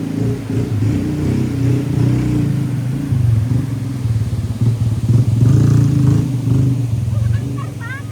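A motor vehicle's engine running steadily, its low hum wavering a little in level.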